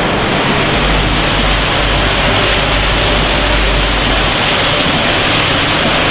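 Steady, loud machinery noise of a running potato-chip production line, with a deeper hum that comes in about a second in and drops out a little past four seconds.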